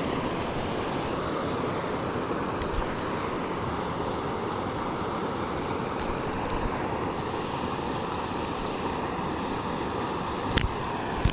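Steady rush of flowing river water, with a few short clicks and knocks, the loudest two near the end.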